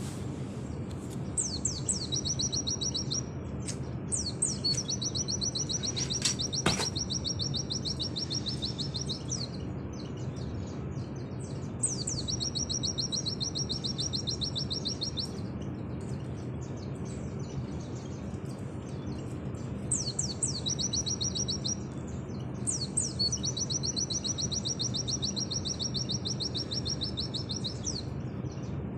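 White-eye (pleci) singing in long, rapid trilled phrases, the fast 'nembak' song, five bursts of one to five seconds each with short pauses between, over a steady low hum.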